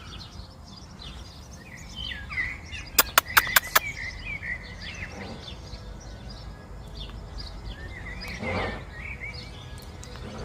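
Birds chirping over and over in short calls, with a quick run of five sharp clicks about three seconds in.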